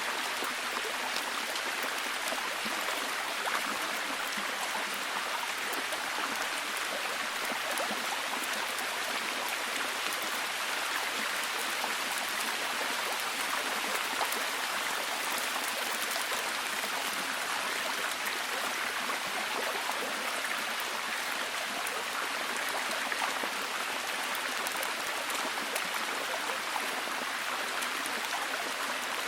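Steady heavy rain: a dense, even hiss of falling water with many small drop ticks.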